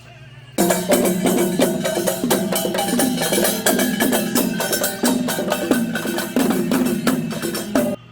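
Loud percussion music: a fast run of drum and wood-block strikes that starts suddenly about half a second in and cuts off abruptly near the end.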